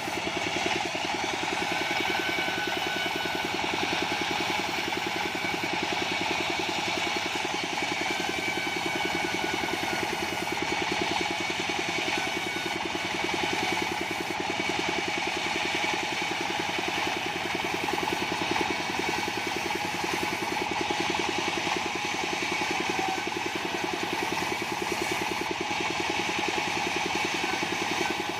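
Engine of a portable bandsaw sawmill running steadily at an even speed, with a faint high steady tone above it.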